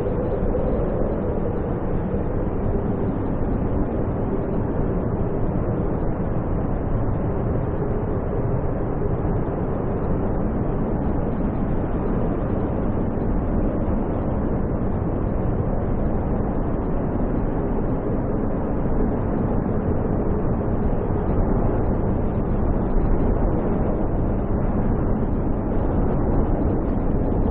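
Snowstorm wind blowing steadily, a low, even rushing noise with a faint hum in it.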